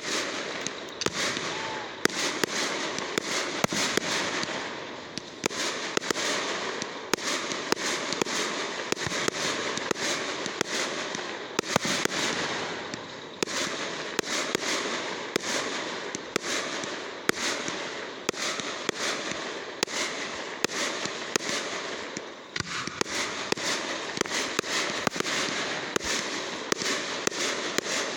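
Fireworks going off: a continuous dense crackling with many sharp pops on top, several a second, and no break.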